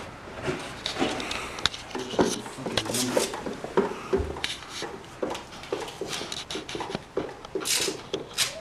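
Tools and parts being handled during hand work on a small dirt bike: scattered clicks, knocks and rubbing, with two sharper clicks near the end.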